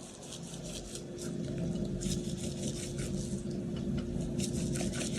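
Faint, scattered soft ticks and rustles of hands seasoning and handling shredded carrot, over a low steady hum.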